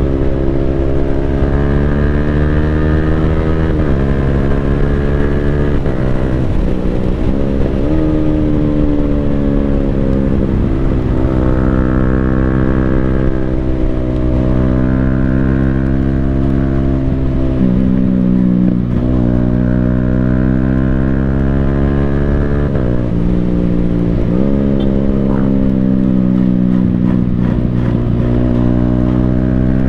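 Yamaha Sniper 155R's single-cylinder engine running through an Akrapovic full exhaust system while riding. The engine note climbs and falls, with several abrupt pitch changes as the rider shifts gears.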